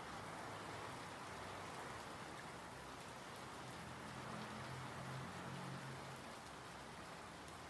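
Steady rain falling, an even hiss of many drops. A faint low hum rises under it in the middle and fades out again.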